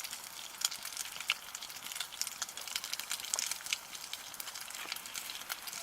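Bacon frying in a pan over a campfire as its fat renders out, with a dense, irregular crackle of small pops and spits.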